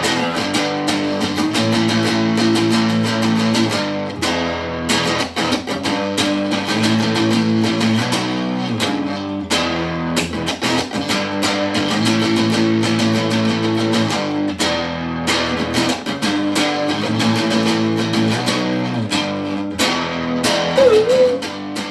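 Plugged-in guitar strummed steadily in an instrumental break, the chords changing every couple of seconds.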